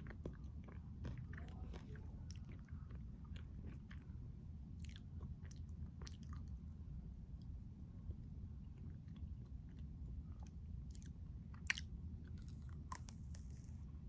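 Close-up biting and chewing of a chocolate-coated crunch bar (Keto Pint Triple Chocolate Crunch Bar), with scattered crisp crackles from the coating. One sharp crunch stands out near the end, over a steady low hum.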